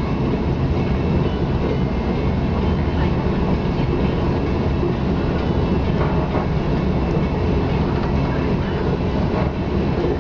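Steady rumble of a KLIA Ekspres electric train running at speed, heard from inside the carriage.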